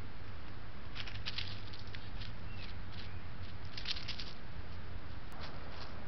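Faint rustling and scratching in dry leaves, heard as scattered light crackles between about one and four seconds in, from a small brown bird foraging in the leaf litter. Under it is the steady hiss of the trail camera's microphone, and a sharp click comes about five seconds in.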